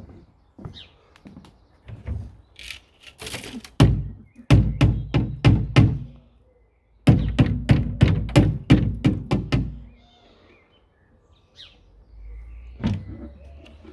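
Dyson DC04 cyclone bin being knocked against something to shake out the dust: two quick runs of sharp thunks, about six and then about nine knocks, a second apart.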